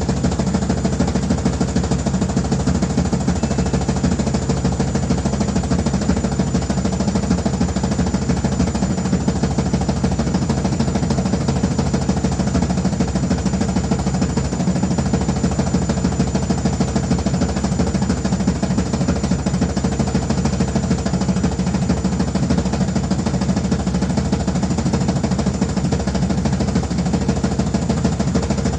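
Washing machine running loudly with a fast, steady rattle and hum.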